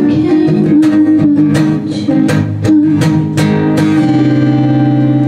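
Guitar strumming chords in a steady rhythm, then a chord left ringing from about four seconds in.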